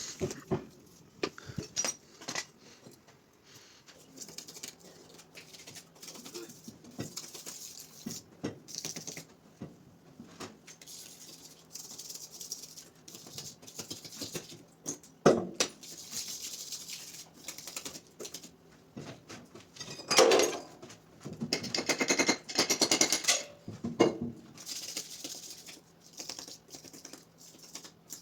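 Hand tools working grout on tiles: irregular scrapes and taps, with a sharp knock about halfway through and a busier stretch of scraping a few seconds later.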